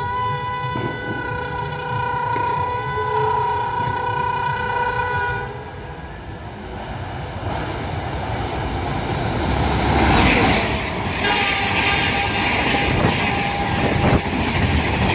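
Locomotive horn sounding one long blast that cuts off about five seconds in. Then a fast train's wheels rush by with rhythmic clatter over the rail joints, loudest about ten seconds in.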